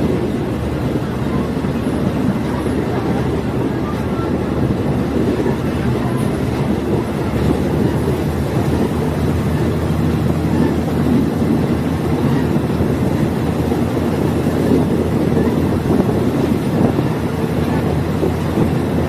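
Diesel multiple unit train under way: its diesel engine drones steadily under the rumble of wheels on the track.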